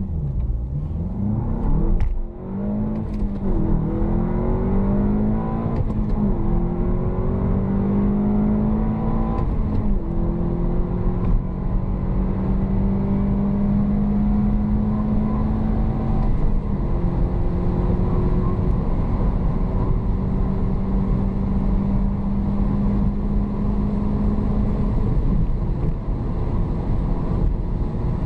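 Volkswagen Golf 7 GTI's turbocharged 2.0-litre four-cylinder engine under full-throttle acceleration. It revs up through the gears, and its pitch drops at each upshift, about six times. Each gear pulls longer than the last as road speed builds.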